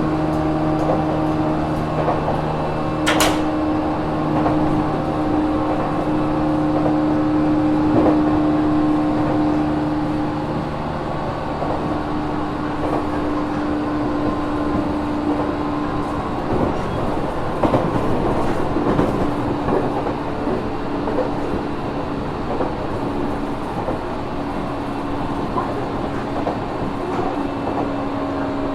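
JR Kyushu 415 series 1500-subseries EMU motor car running along the line: the traction motor and gear drive give a steady two-note whine that holds its pitch, over wheel and rail rumble, with a sharp click about three seconds in. This car is labelled an unusual-noise car (異音車).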